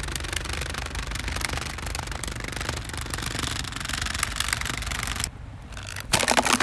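Holmes Air box fan being destroyed: a loud, dense, rapid clatter of plastic. It eases off about five seconds in, then a short loud burst of clattering comes near the end.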